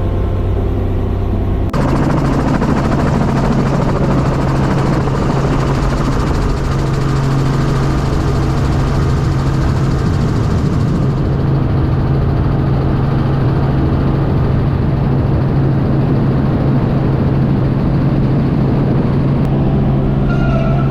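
Helicopter in flight: a loud, steady drone with a strong low hum, cut abruptly to a new take about two seconds in.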